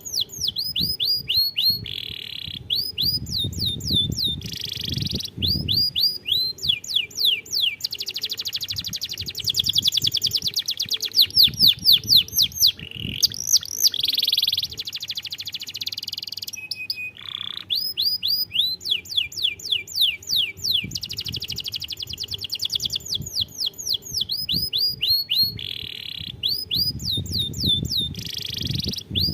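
Domestic canary singing a long song of rapid trills and repeated short downward-sweeping notes, with a dense, fast roll about ten seconds in and only brief pauses.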